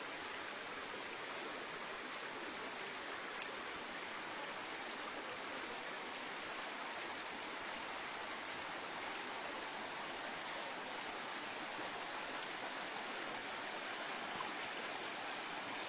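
Steady rain falling in a forest, an even hiss with no separate drops or other events.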